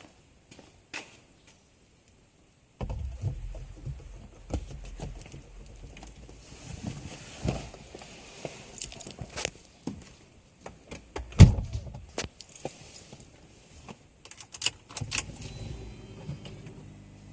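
Handling noise: rustling with a series of clicks and knocks, starting suddenly a few seconds in, and one loud thump a little past halfway. A steady low hum sets in near the end.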